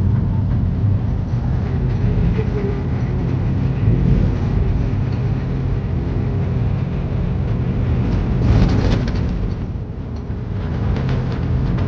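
Truck driving along, its engine and road noise making a steady low rumble, with a brief rush of hiss near the end.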